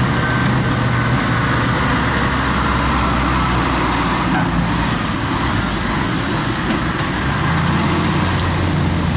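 Heavy diesel trucks running past on a busy road: steady traffic noise with a low engine drone, and another engine drawing near late on.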